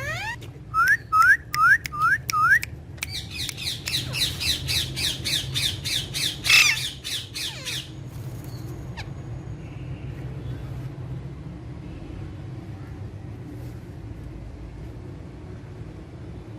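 Green parakeets squawking: five sharp rising screeches, then a fast run of harsh calls at about four a second with one louder screech among them. The calling stops about halfway through.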